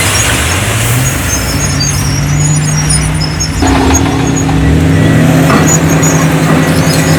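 Heavy diesel engine of earthmoving machinery running under load, its pitch rising about a second in and climbing again, louder, about three and a half seconds in. Short high squeaks sound throughout.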